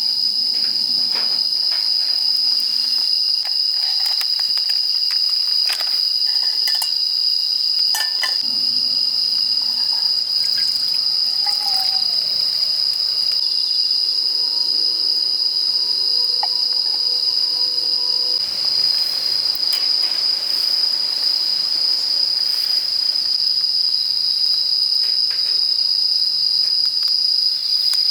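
Crickets and other autumn insects singing in a steady, unbroken high-pitched chorus, with scattered light clicks and knocks over it.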